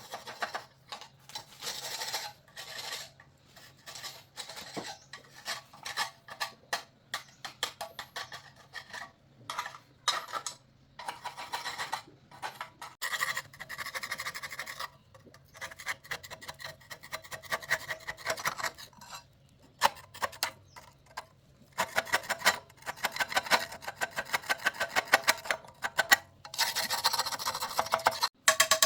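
Hand scraping on metal: rapid, repeated rasping strokes in bursts of a few seconds with short pauses between them, as when cleaning or filing a part by hand.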